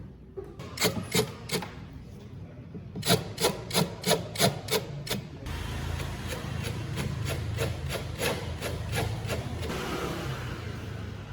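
Repeated rubbing or rasping strokes, about two to three a second. About halfway through a steady low hum sets in, with the strokes continuing over it.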